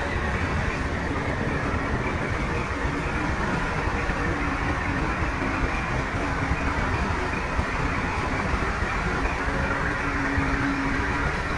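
Shantui crawler bulldozer at work: its diesel engine runs steadily under the clatter of its steel tracks, making a dense, unbroken mechanical noise.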